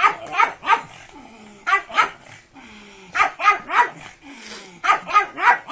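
A dog barking in quick runs of two or three barks, four runs about a second and a half apart.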